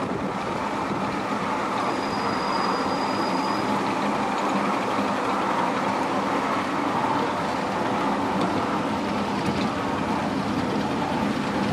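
Miniature railway train running along its track, a steady rumble with no clear beat.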